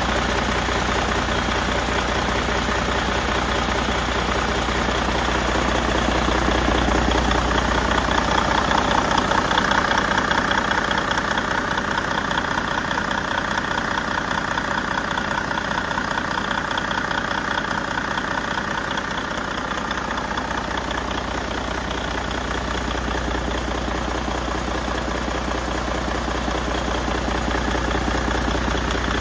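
2014 Detroit DD15 14.8-litre inline-six diesel engine running at idle. It grows a little louder for a few seconds about a third of the way in, then settles back.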